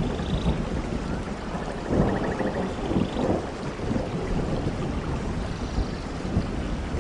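Steady rain falling with thunder rumbling low underneath, the rumble swelling about two seconds in and again around three seconds.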